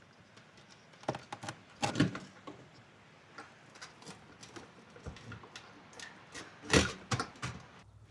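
Irregular clicks and knocks from parts being handled and fitted during hands-on car repair work. Two louder knocks come about two seconds in and near the end.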